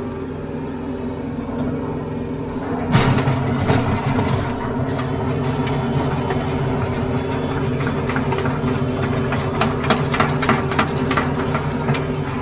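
TYM T574 compact tractor's diesel engine running steadily. About three seconds in, the rear rotary tiller bites into the soil, adding a gritty churning noise, with a run of rapid knocks from clods and stones later on.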